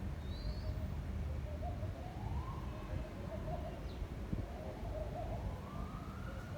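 Wind buffeting the microphone with a steady low rumble, under doves cooing and a short high bird chirp near the start. Twice, a slow rising wail climbs through the sound.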